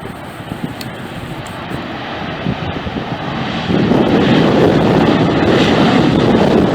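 Jet airliner engines roaring as a plane passes close overhead, the noise building and then swelling sharply louder about two-thirds of the way in.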